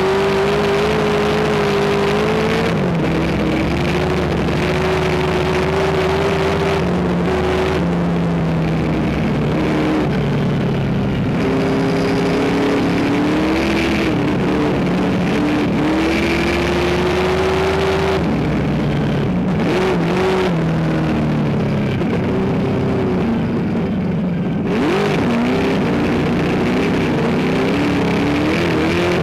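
Race car engine running hard without a break, its pitch climbing and then dropping several times as it revs, shifts and lifts.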